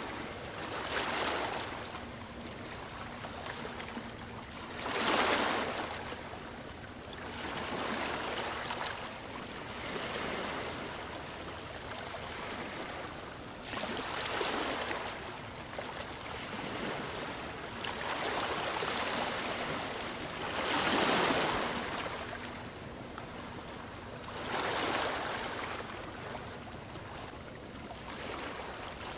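Sea waves washing onto a shore, the surf swelling and fading every few seconds.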